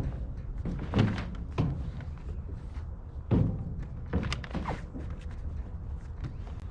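Irregular heavy thuds and knocks, about six in a few seconds, from a steel tarp being handled and spread over a load of steel rolls on a flatbed truck.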